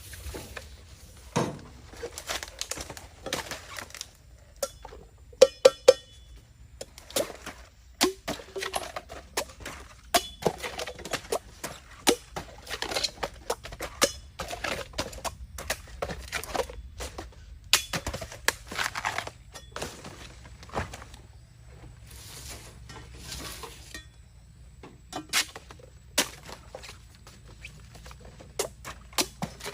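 Bamboo cracking and knocking: a steady run of irregular sharp clicks, snaps and thunks, with a quick cluster of loud cracks about five seconds in.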